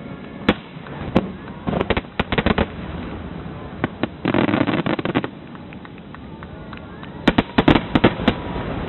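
Fireworks going off: sharp bangs in irregular clusters, with a dense run of bursts about four to five seconds in and a rapid volley near the end.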